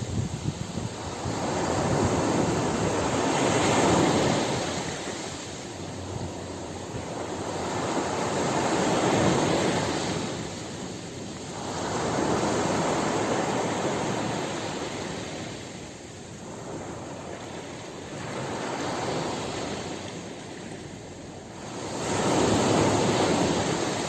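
Ocean surf breaking and washing up a beach, the rush swelling and fading in slow surges about every four to six seconds.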